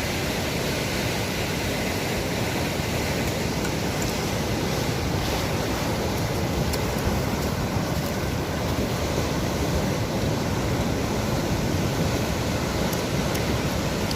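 Sea waves washing on the shore in a steady, unbroken surf.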